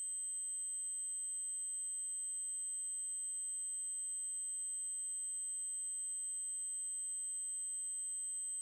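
Synthesized 8192 Hz triangle-wave tone: a single steady, very high-pitched whistle-like pitch that holds without change, with fainter steady overtones around it.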